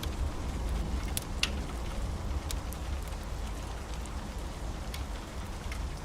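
Steady rain with a low thunder rumble dying away, and a few sharp pops of a crackling wood fire.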